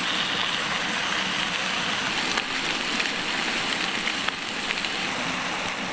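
Bacon sizzling over a campfire: a steady frying hiss with a few small pops.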